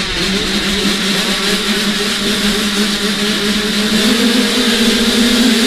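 Motocross dirt bike engine running at high, fairly steady revs, its pitch stepping up a little about four seconds in.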